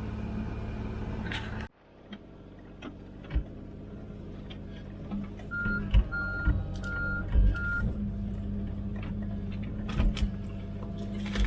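Komatsu PC16 mini excavator's diesel engine running steadily. About two seconds in, the level drops abruptly and then rises again. About halfway through, four short high beeps of the machine's warning alarm sound, with a few low thumps around them.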